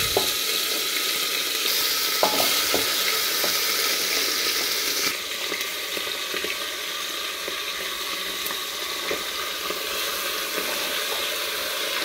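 Marinated chicken sizzling as it hits hot oil in a pressure cooker, with a spatula scraping it out of the pan and clinking against metal. The sizzle starts suddenly and eases a little after about five seconds.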